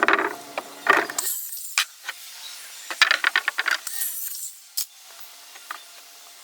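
Clicks, knocks and rattles of tools and hardware being handled, with a quick run of ratchet-like clicks about three seconds in and two short hissing rustles.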